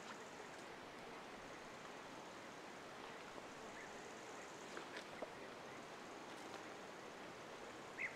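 Faint outdoor ambience: an even hiss with a few short, high bird chirps, the loudest near the end, and a couple of light clicks about five seconds in.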